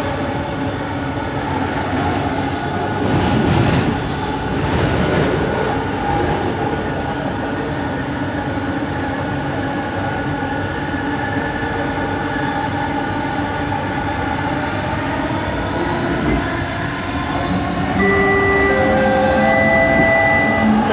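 Bombardier Innovia ART 200 metro train running, its linear induction motors giving a steady hum and whine over the rolling noise of the car. Near the end the level rises and a series of steady tones at stepping pitches sets in.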